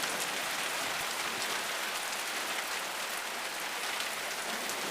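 Heavy rain coming down steadily, big drops pattering and spattering on surfaces.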